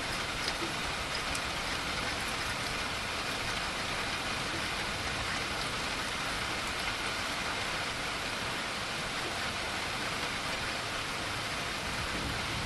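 Steady heavy rain pattering on surfaces, with a few separate drop impacts about half a second in.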